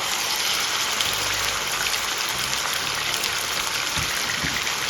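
Diced chicken sizzling in hot sunflower oil in a saucepan: a steady, dense crackle of frying.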